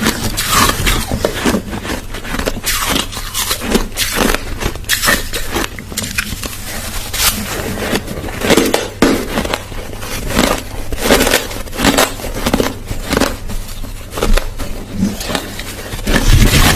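Crushed ice being chewed: a dense, irregular run of crisp crunches and cracks.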